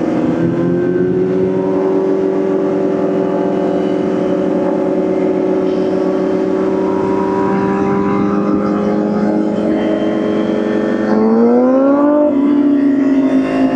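Motorcycle engine running at a steady cruising speed, then rising in pitch and getting louder about eleven seconds in as it accelerates, before holding at the higher pitch.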